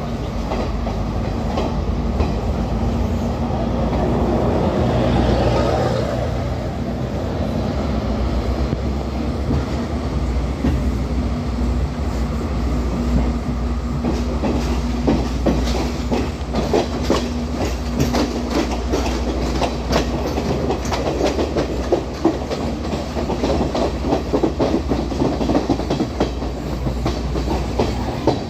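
Class S12 diesel multiple unit running, with a steady engine hum and wheels clicking over rail joints, heard from an open doorway. The clicks come thicker and faster in the second half as the train gets under way.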